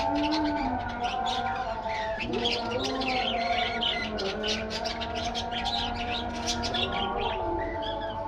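A flock of budgerigars chirping and chattering rapidly and continuously, over background music with long held notes.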